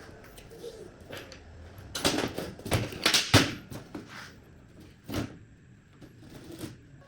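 A string of irregular knocks and clunks, as of metal parts and tools being handled and set down in a workshop. They come thickest about two to three and a half seconds in, with another clear knock about five seconds in.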